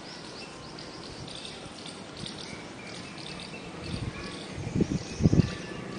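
Small birds chirping, many short calls over a steady outdoor background, with a few low thumps or bumps near the end.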